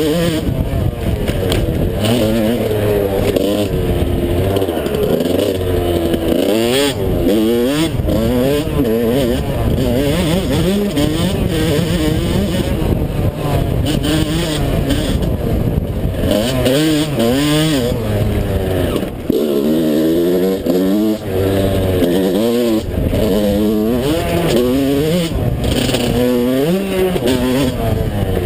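Yamaha YZ125 two-stroke motocross bike's engine being ridden hard, revving up and dropping back again and again as the rider opens and closes the throttle, each burst climbing in pitch.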